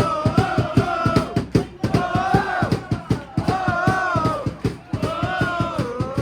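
Football crowd singing a chant in repeated phrases that rise and fall, over a steady drum beat.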